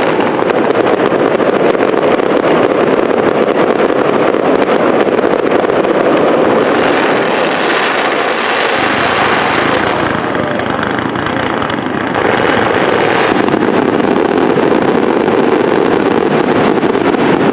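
Fireworks barrage: a dense, continuous rattle of shell bursts and crackle. Several high falling whistles sound about six seconds in.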